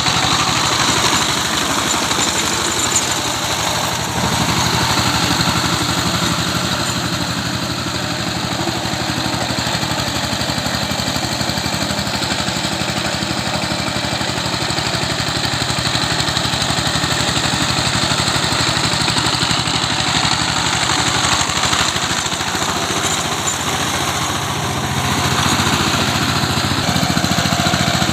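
Tractor engine running steadily while working a wet field into mud, easing a little in the middle and growing louder again near the end.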